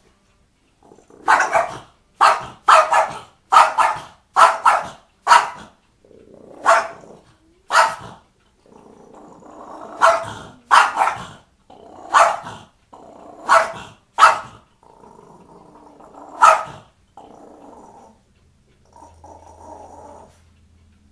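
Small dog barking and growling: a rapid run of sharp barks in the first few seconds, then single barks every second or so with growls in between, fading to a low growl near the end.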